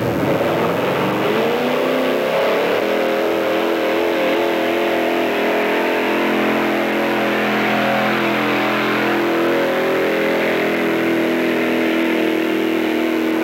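Pickup truck engine revving up about a second in, then held at high revs under load in a truck pull, its pitch wavering slightly.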